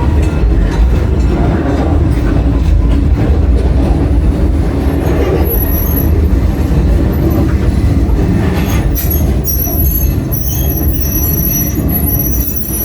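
Narrow-gauge train running with a steady low rumble. About halfway through, thin high-pitched wheel squeal sets in and grows stronger, typical of the wheels grinding through a curve.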